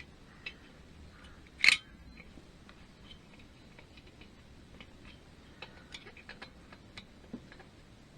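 Scattered light clicks and taps of small engine parts and hand tools being handled during engine reassembly, with one louder clack a little under two seconds in.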